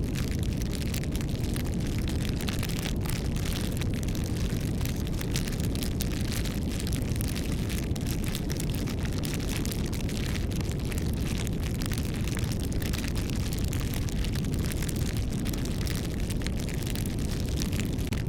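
Wood bonfire crackling, with frequent small pops and snaps over a steady low rumble.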